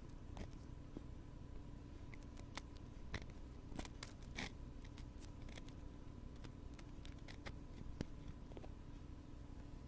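Wooden ear pick scraping and clicking against a binaural microphone's ear in irregular soft strokes, busiest about four seconds in. A faint steady hum runs underneath.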